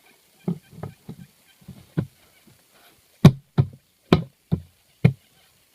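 A series of about ten irregular knocks. The loudest five come at an even pace of roughly two a second in the second half.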